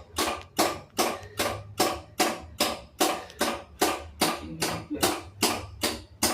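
Electronic control board of a Samsung RS27KLMR refrigerator clicking over and over in an even rhythm, about two and a half clicks a second, as it fails to start. The technician traces the fault to a short circuit on the board.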